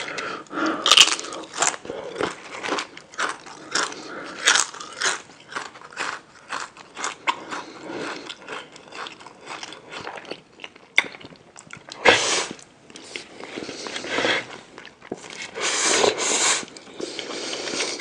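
Close-miked eating: biting, crunching and chewing, with dense crackly clicks and a few longer, louder noisy passages about twelve and sixteen seconds in.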